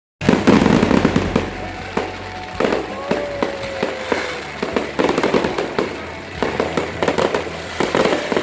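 Fireworks display: clusters of sharp bangs and crackling bursts, loudest in the first second, then coming again in waves every few seconds.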